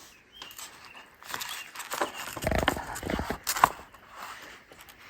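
Irregular clicking, scraping and rattling of plastic and metal parts as the lock cylinder housing is worked loose and pulled out of the top case by hand, with one sharper click about three and a half seconds in.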